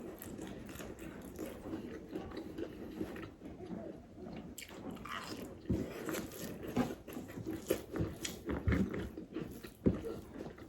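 Close-up eating sounds: a person chewing and biting food with wet smacks and soft crunches, the bites coming closer together and louder in the second half.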